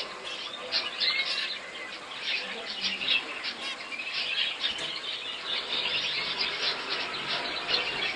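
Many small birds chirping and chattering at once, short high calls overlapping without a break.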